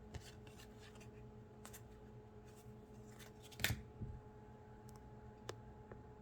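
Faint handling of glossy trading cards: soft flicks and rustles as cards are slid off a stack one by one, with one sharper click a little past halfway, over a faint steady hum.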